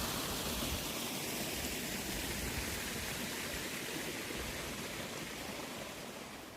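Rushing water of a stream, a steady hiss that slowly fades.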